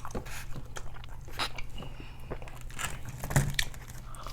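Close-miked chewing and crunching on fried chicken wings: irregular wet mouth clicks and crunches, the loudest about three and a half seconds in, over a low steady hum.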